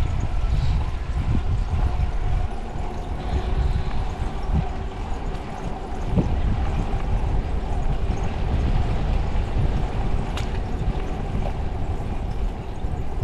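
Wind buffeting the microphone of a moving bicycle, a loud, uneven low rumble, with a faint steady hum underneath and a single click near the end.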